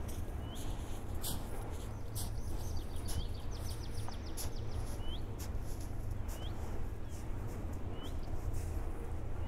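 Wild songbird calling: a short rising note repeated every second or two, with a brief rapid trill about three seconds in. Under it runs a steady low rumble, with scattered faint clicks.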